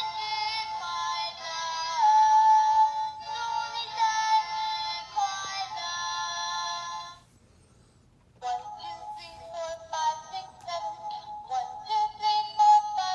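A garbage truck's electronic jingle playing a tune of high, thin synthesized notes through a small loudspeaker. It stops about seven seconds in and starts again about a second later.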